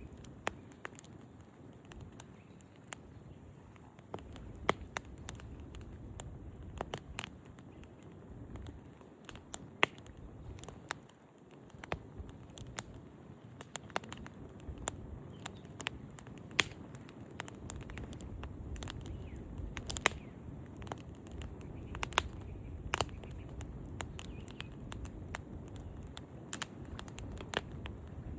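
Campfire crackling: irregular sharp pops and snaps, several a second at times, over a low steady rush.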